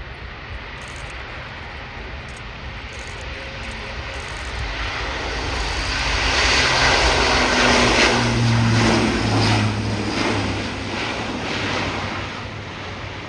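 Airbus A400M Atlas turboprop transport flying past. Its engines grow louder to a peak about halfway through, then fade, with the engine tone dropping in pitch as it passes.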